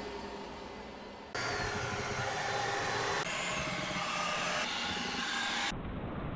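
Roomba robot vacuum running, its steady motor and brush noise digitally altered, switching abruptly between differently processed versions several times. Near the end it turns muffled, with the top end cut away.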